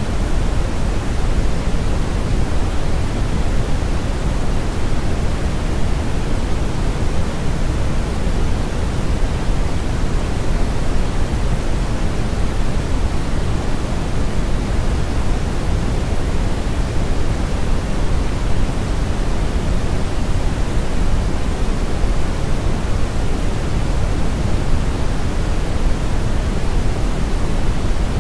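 Steady, unchanging brown noise: a low, rough hiss with most of its energy in the bass and the treble rolled off, like the rumble of a river current or strong wind.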